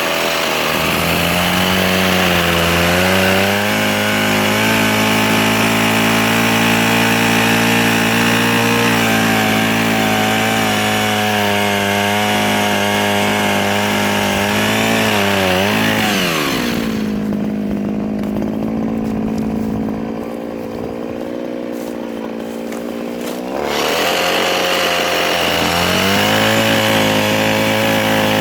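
Mini chainsaw running at high speed and cutting through softwood, with a steady motor tone and a hiss of sawing. About halfway through it drops to a lower speed and the cutting hiss falls away for about seven seconds. Near the end it speeds up again.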